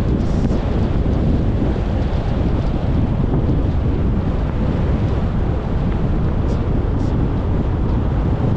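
Steady low rumble of a moving car's road and wind noise, tyres running on the road.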